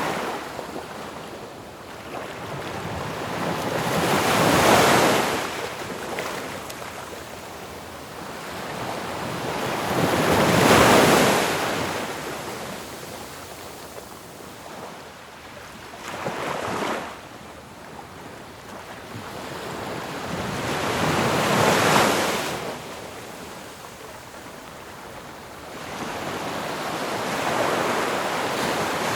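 Ocean waves breaking on a shore: a steady wash that swells to a crash about every six seconds and then draws back.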